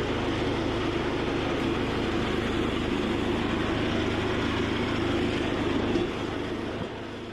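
Small engine running steadily, then dropping in level about six seconds in and fading away near the end.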